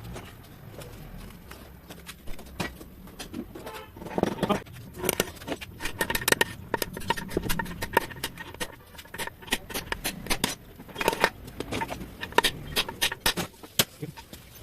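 Irregular metallic taps, clicks and knocks of tools and parts on a TVS Jupiter scooter's gearbox casing while an oil seal and new bearings are fitted. The taps are sparse at first and come thick and fast from about four seconds in.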